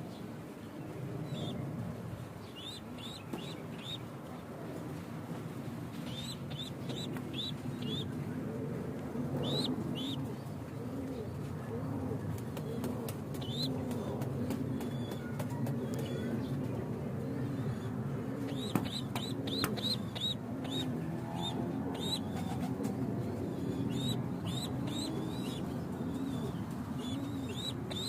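Pigeons cooing continuously in a loft, overlapping rolling coos, with short runs of high chirps and a few sharp clicks about two-thirds of the way through.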